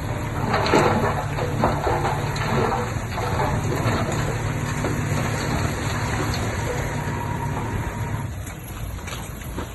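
Bulldozer's diesel engine running steadily, with scattered clanks and scraping over the first few seconds. It drops off a little near the end.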